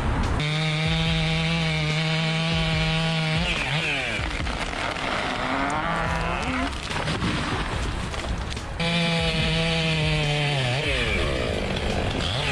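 Chainsaw run at high revs twice, each time for a few seconds, its pitch falling away as the throttle is let off.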